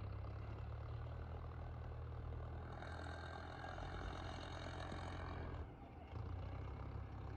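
A farm diesel engine running steadily at low revs. A higher whine joins it for about two seconds in the middle.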